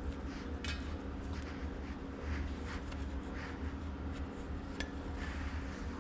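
Scattered light metallic clinks and rubbing from handling parts on a tractor axle housing, over a steady low hum.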